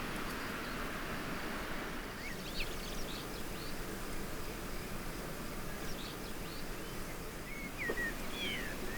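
Small birds chirping in short, quick calls, in scattered groups from about two seconds in, over a steady rushing outdoor background noise.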